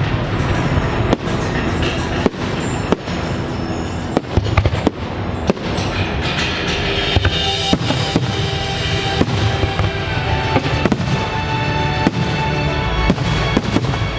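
Fireworks bursting in rapid, uneven succession, many sharp bangs over a continuous low rumble, with the show's accompanying music playing underneath.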